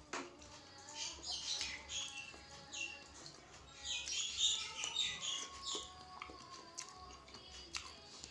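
A sharp click at the start, then close-up chewing and wet mouth sounds of a person eating kupat tahu (rice cake and tofu in thick peanut sauce). The chewing comes in two louder bouts, about a second in and again around four to five seconds in.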